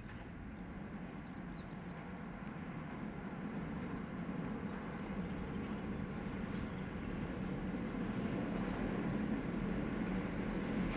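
Diesel express train approaching, its engines and running gear making a steady drone that grows louder throughout.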